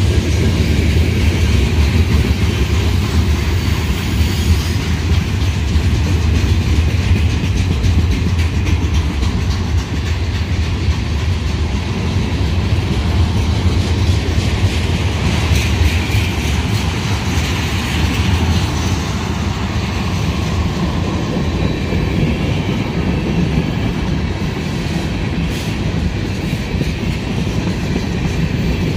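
Freight train cars (covered hoppers and tank cars) rolling past close by: a steady, loud rumble of steel wheels on the rails.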